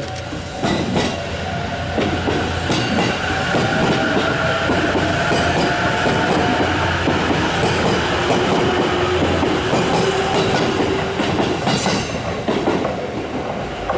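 E257 series electric train running along the track, wheels clacking over rail joints, with a motor hum whose pitch slowly shifts. It builds up about a second in and stays loud.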